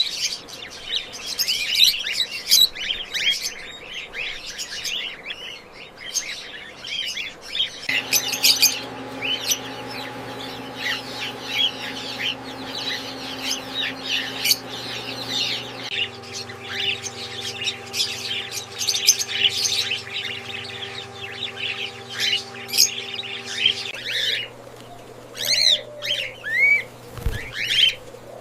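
Many cockatiels chirping, a dense and continuous chatter of short calls from a large flock. Through the middle a steady low hum runs underneath, shifting in pitch about halfway through and stopping a few seconds before the end.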